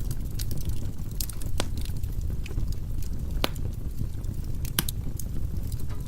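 Firewood burning in a fireplace: a steady low rumble of flames with irregular sharp crackles and pops, the loudest about one and a half, three and a half and nearly five seconds in.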